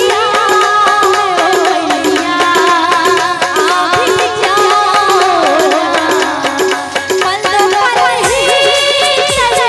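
Instrumental interlude of a live Indian devotional stage band: a gliding, ornamented melody line over steady, rhythmic percussion.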